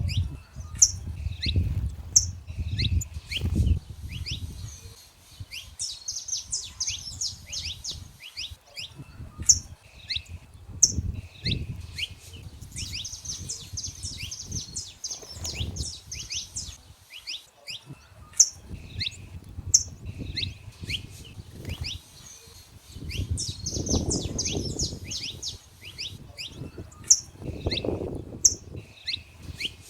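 Saffron finches (canário-da-terra) singing in the wild: phrases of quick, sharp chipping notes that recur every few seconds. A low rumble comes and goes underneath, strongest near the start and again near the end.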